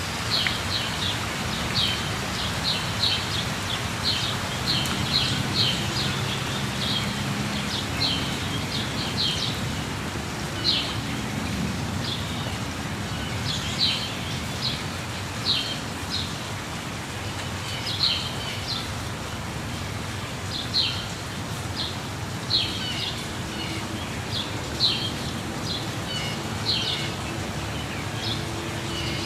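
Steady rushing water of a jungle waterfall, with birds giving short, high chirping calls every second or two over it.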